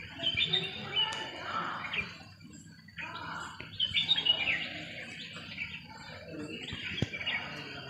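Birds chirping in three bursts of quick, high notes.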